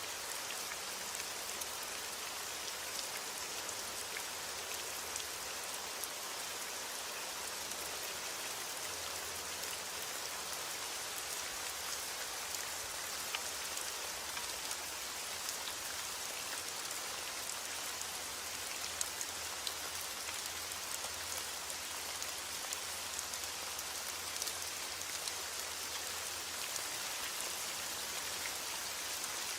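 Steady rain falling on a surface, an even hiss with many small drop ticks. No thunder is heard.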